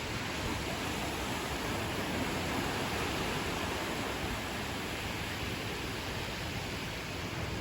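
Ocean waves washing onto a beach as a steady surf hiss, swelling slightly a couple of seconds in.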